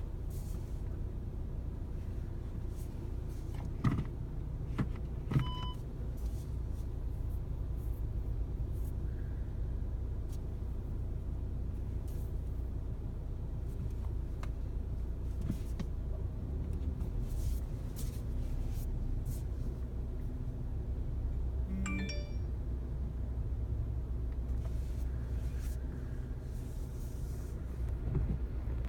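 Steady low road rumble inside the cabin of a Volkswagen Passat B8, with a few sharp clicks about four to five seconds in and a short pitched ping about two-thirds of the way through.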